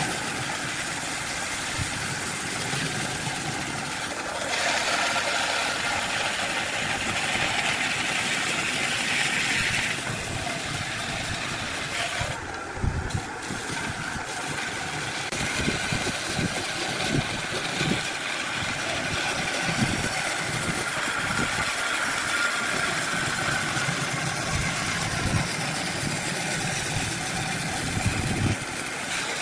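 Wood lathe running with a steady motor hum. A turning tool cuts the spinning wood in a rougher, hissing stretch, and short knocks are scattered through the later part.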